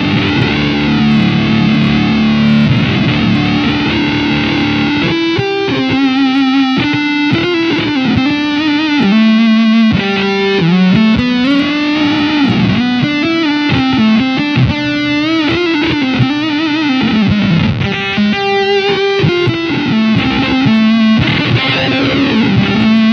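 Electric guitar played through an EarthQuaker Devices Data Corrupter PLL synth pedal on its master oscillator alone, the guitar turned into a buzzy, distorted square-wave synth tone. A sustained, wavering chord for about five seconds, then a single-note line with the pitch sliding between some notes.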